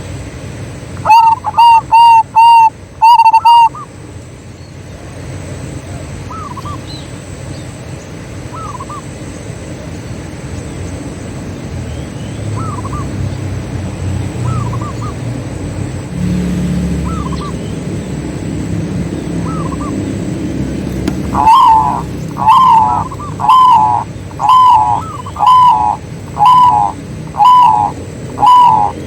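Zebra doves cooing. A close dove gives a quick run of short, loud coos about a second in, a fainter dove answers with single coos every couple of seconds over a low rumble, and from about three-quarters through a close dove coos steadily, about one note a second.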